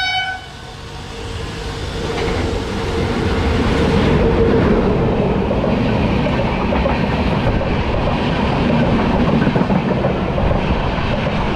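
A passenger train running past on the adjacent track, its rumble and wheel clatter growing louder over the first few seconds and then holding steady. A horn blast cuts off just at the start.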